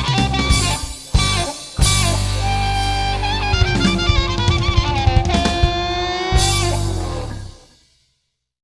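Background music with guitar and drums and a steady beat, fading out about three quarters of the way through into complete silence.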